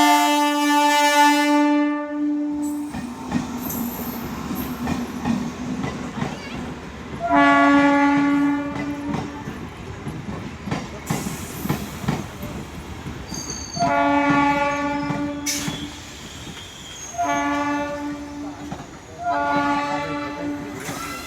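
Train horn blowing five times, each blast lasting one to two and a half seconds, over the continuous rumble and clickety-clack of the train running on the rails.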